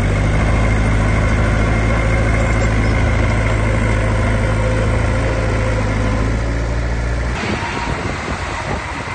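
Heavy diesel engine of earthmoving equipment running steadily. About seven seconds in the engine sound cuts off abruptly and gives way to a rougher, noisier rumble.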